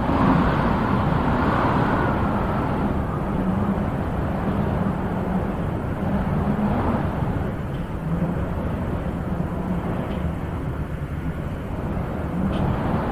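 Wind blowing as a steady rushing noise, with gusts that swell at the start, again about halfway through, and near the end.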